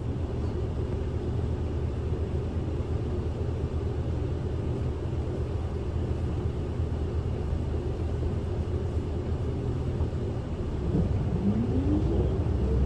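Steady engine and road rumble heard inside a city bus, with a rising whine from about eleven seconds in as the bus picks up speed.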